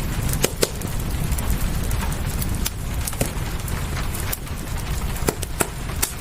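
Wood fire crackling, with irregular sharp pops and snaps every second or so over a steady hiss of rain and a low rumble.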